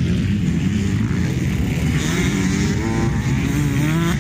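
Motocross motorcycle engines revving on the track, with one engine's pitch rising in the second half as it accelerates.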